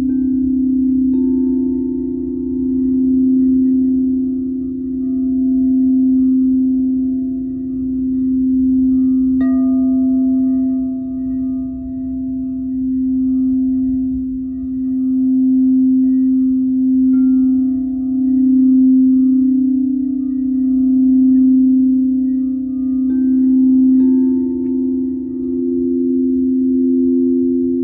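Singing bowls ringing in a steady deep drone that swells and ebbs slowly. A few times a bowl is struck again and a higher tone joins in and rings on over the others.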